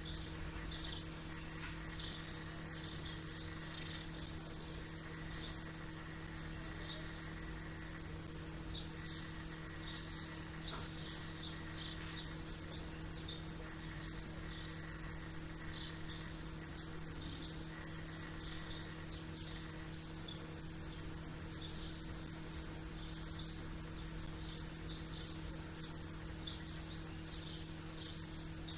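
Small songbirds chirping over and over, about two short chirps a second, over a steady low hum.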